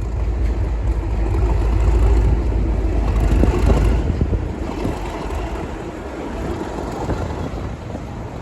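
Class 37 diesel locomotive's English Electric engine working hard: a loud, heavy low rumble with rushing noise over it, strongest about two to four seconds in and then easing a little.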